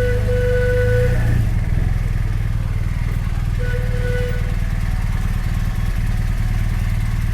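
BMW R 1250 RT's boxer twin engine running steadily, with a short steady high-pitched tone sounding twice over it, once at the start and again about three and a half seconds in.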